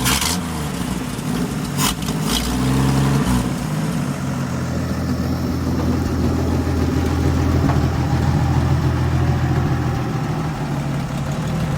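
1962 Ford F-350 truck engine running after years of sitting, freshly revived and drawing fuel from the tank. It is revved up and down a couple of times in the first few seconds, with a couple of sharp clicks, then settles to a steady run.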